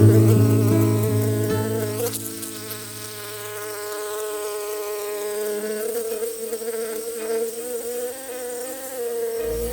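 A flying insect buzzing in a steady, slightly wavering drone.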